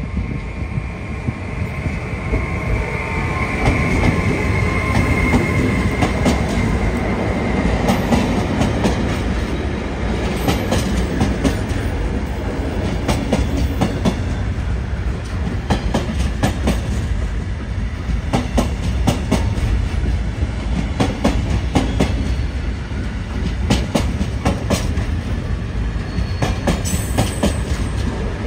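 Long freight train rolling past at about 30 km/h, its locomotive a Siemens ES64F4 electric: a steady low rumble of wagons going by, with irregular clicking and clacking of wheels over rail joints and points. A high squeal fades away over the first few seconds.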